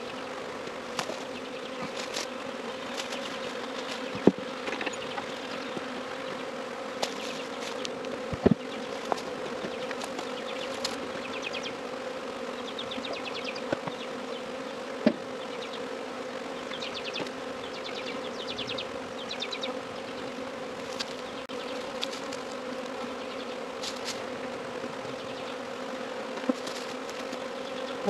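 Honey bee swarm buzzing in a steady hum, with scattered sharp clicks and a few louder knocks.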